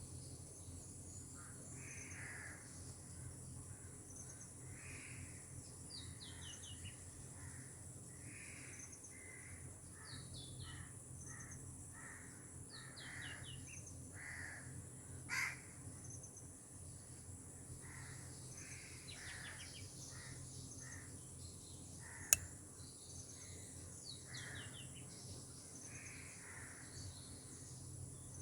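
Birds calling and chirping over a steady high hiss: repeated short calls mixed with quick falling chirp series. There is a brief louder noise about halfway through and a single sharp click later on.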